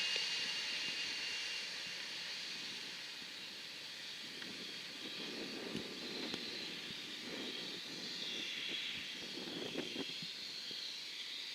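Jet aircraft engines heard at a distance: a steady rushing hiss that slowly fades.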